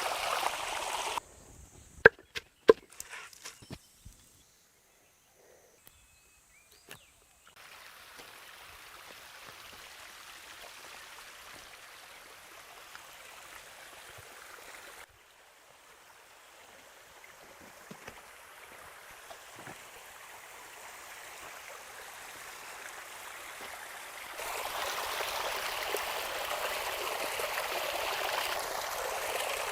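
A few sharp knocks and clicks in the first four seconds, then steady running water for the rest, used for washing food; the flow gets louder about two-thirds of the way through.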